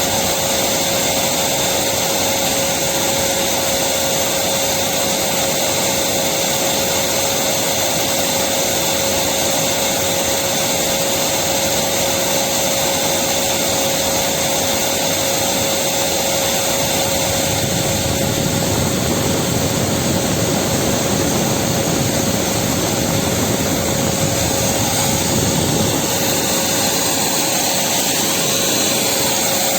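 Electric vacuum cleaner running steadily, a continuous motor whine with an even rushing of air and no change in level. The low end thickens a little in the second half.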